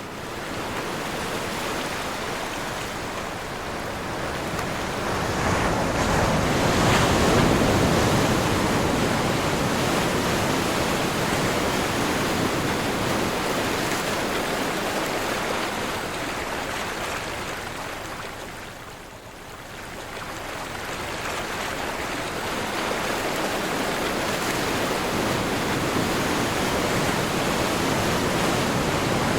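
Ocean surf with wind: a continuous rushing wash of waves that swells about a quarter of the way in and dips briefly about two-thirds through before building again.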